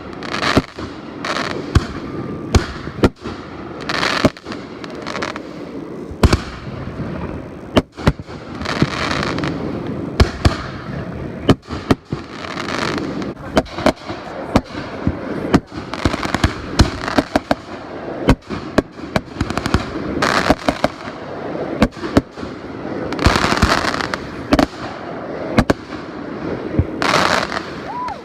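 Fireworks going off: a rapid, irregular string of sharp bangs, often about two a second, among longer hissing, crackling bursts.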